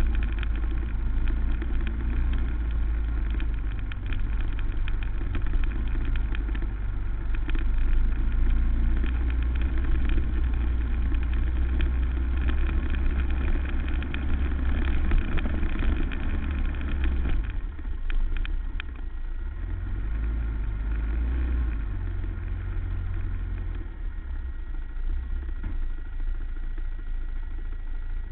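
Racing quad's engine running under a heavy low rumble, with many quick knocks and rattles. A little over halfway through it settles into steadier, somewhat quieter running.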